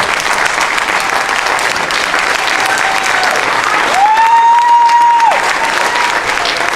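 Audience applauding and cheering after a song, with one loud, long high-pitched cheer about four seconds in.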